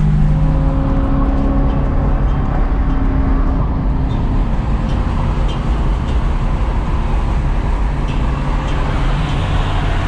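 BMW E93 M3's V8 engine running steadily while driving, with road and tyre noise.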